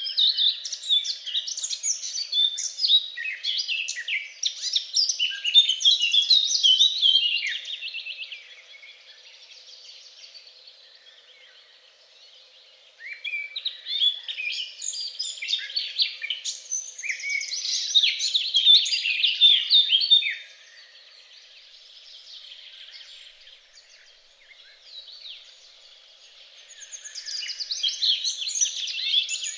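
Songbirds singing: long runs of rapid twittering chirps in three stretches of several seconds each, with quieter pauses between them.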